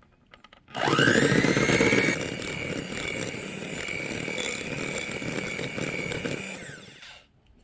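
Electric beater switched on about a second in, its motor whine rising to speed as it beats thick whipped cream. It is loudest at first, then runs steadily before winding down near the end.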